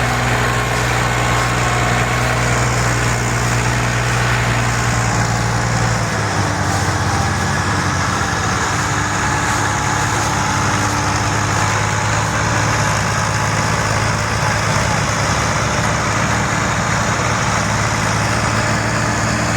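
Tractor diesel engine running steadily under load; its note shifts lower about six seconds in.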